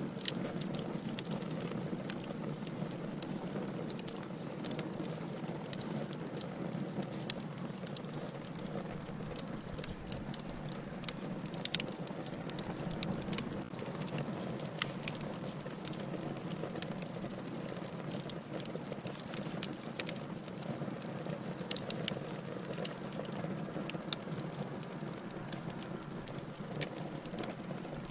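Wood fire crackling in a fireplace: a steady low rush of flames with many small, irregular pops and snaps.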